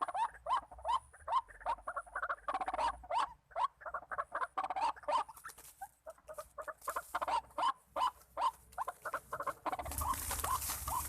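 White-breasted waterhen (ruak-ruak) calls: a long run of short, harsh notes repeated two to three times a second. A rustling hiss joins near the end.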